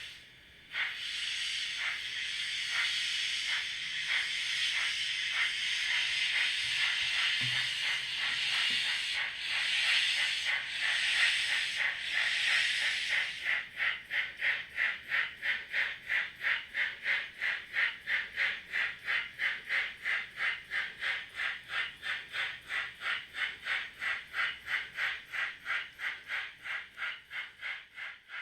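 Miniature steam locomotive running at speed: a steady steam hiss, then, from about halfway, clear exhaust chuffs at about three a second.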